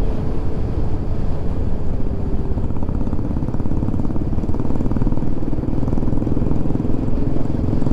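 Royal Enfield single-cylinder motorcycle engine running steadily at cruising speed while riding along a paved road.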